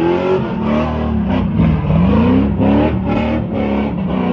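Fourth-generation Chevrolet Camaro doing donuts: its engine revs up and down again and again, several times in a few seconds, over the hiss of the rear tires spinning on the pavement.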